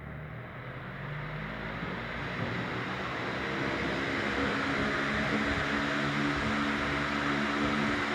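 Britânia C50 electric fan spinning up: a rushing of air with a low motor hum that grows steadily louder as the blades gather speed.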